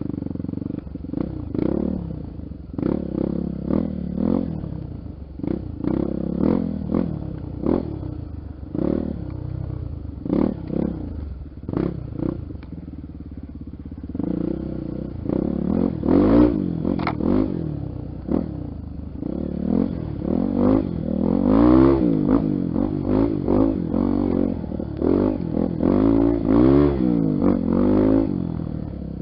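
Honda XR Tornado's single-cylinder four-stroke dirt-bike engine revving up and falling back again and again on a trail, with knocks and rattles from the bike. It revs harder and louder from about halfway through.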